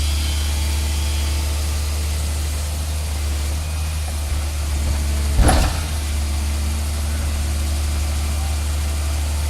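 Heavy excavator's diesel engine running steadily, with one sharp clank a little past halfway.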